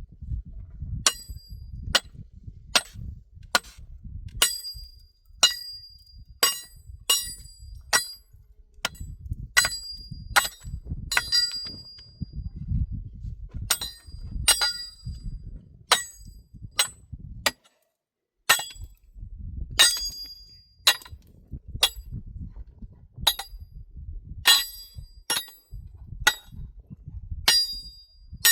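A hammer striking stone over and over, roughly one blow a second. Each blow has a short metallic ring, with a brief break just past the middle.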